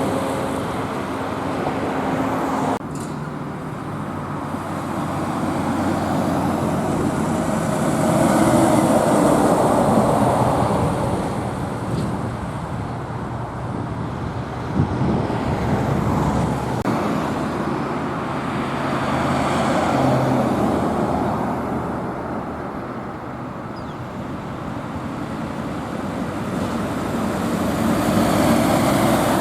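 Road traffic going by, cars and trucks passing one after another, so the tyre and engine noise swells and fades several times. The sound drops abruptly to a quieter stretch about three seconds in.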